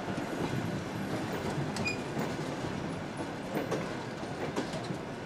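Train of refrigerated boxcars rolling past, a steady rumble of wheels on rails with an occasional click as wheels cross rail joints.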